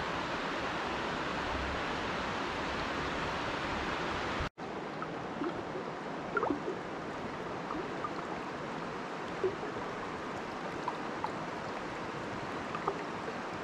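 River water running steadily. The sound cuts off abruptly about four and a half seconds in and resumes quieter, with a few faint short clicks.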